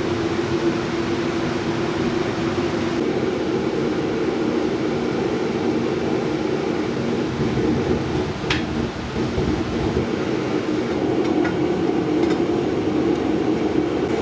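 Gas torch flame running with a steady roar, heating a rust-seized threaded joint to expand the parts and break the rust seal. A single short click about eight seconds in.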